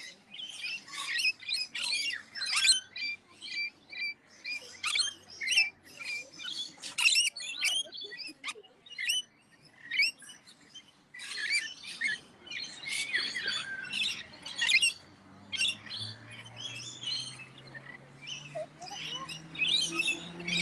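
Many birds calling over one another in a dense run of short, high chirps and squawks. A low hum rises slowly in pitch over the last few seconds.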